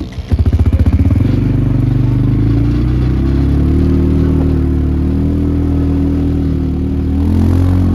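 Pit bike engine running loud and close. It comes in suddenly with about a second of separate firing pulses, then settles into a steady note.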